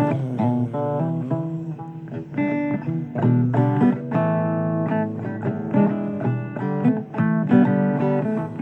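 Blues guitar instrumental passage: a guitar playing a run of picked notes and strummed chords.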